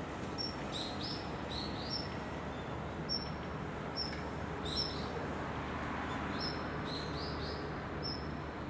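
Small birds chirping: a series of short, high chirps, one or two a second, over a steady low hum.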